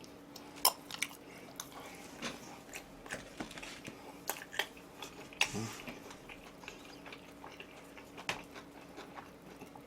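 Close-miked eating sounds: chewing charcoal-grilled pork trotters (jokbal), with scattered wet mouth smacks and clicks.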